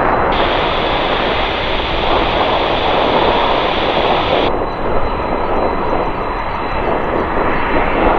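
Jet airliner engines running loud and steady on or near the runway, a broad rushing roar that shifts abruptly in tone about half a second in and again about halfway through.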